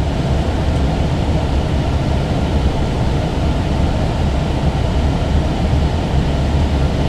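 Steady rush of airflow and engine noise inside an Airbus A321 cockpit on final approach, heaviest in the low end.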